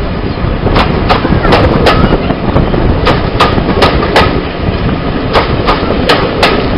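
Railway coach wheels clicking over rail joints, the strikes mostly in close pairs, over the steady rumble of the moving train and wind rushing past the open carriage window.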